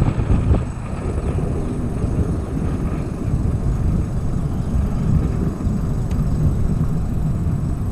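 Wind rumbling on a bike-mounted action camera's microphone while riding an e-bike, a steady gusty low rumble with road and tyre noise under it.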